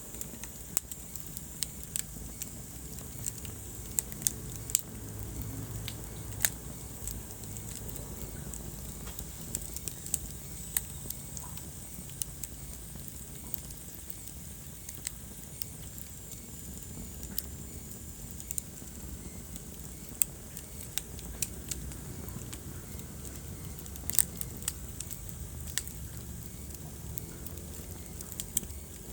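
Wood fire burning in a fireplace: a steady low rumble of flames with irregular sharp pops and snaps of crackling logs.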